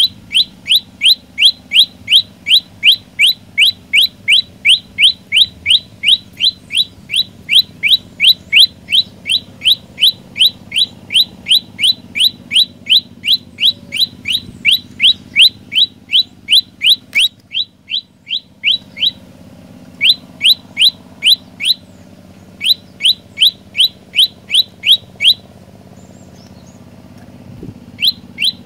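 Olive-backed tailorbird singing a long, rapid run of short, sharp rising notes, about three a second, stopping briefly twice before starting again near the end.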